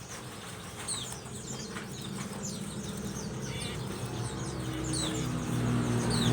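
A group of common ioras (cipoh) calling in short, high, falling chirps, repeated over and over. Underneath, a motor engine's hum grows steadily louder from about two seconds in.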